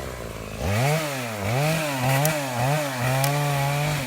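Gas chainsaw revving up and down again and again while cutting up felled trees. It drops low for a moment at the start and is then held at high revs near the end.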